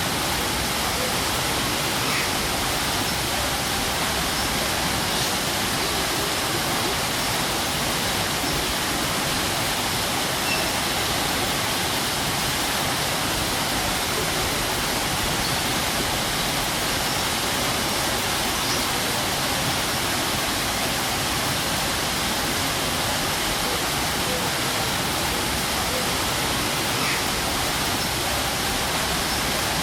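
A strong waterfall: a steady, even rush of falling water.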